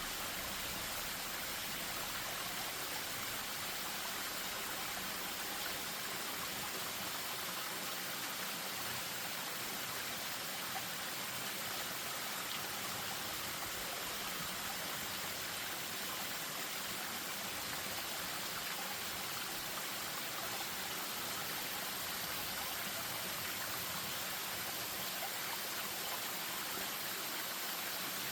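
Spring-fed stream spilling over a small waterfall: a steady, even rush of flowing water.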